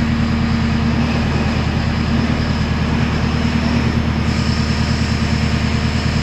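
Tractor engine running steadily, with a fast, even firing pulse over a low hum.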